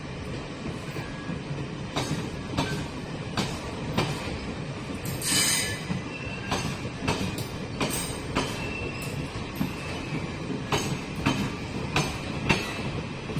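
Train running past on the rails, a steady rumble broken by sharp wheel clacks over rail joints at uneven intervals, with a longer, louder hissing screech about five seconds in.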